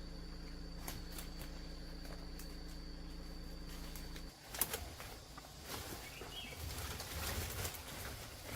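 A steady hum with a thin high whine, cut off suddenly about four seconds in. Then rustling and snapping of footsteps pushing through dry leaves and undergrowth, with one brief bird chirp.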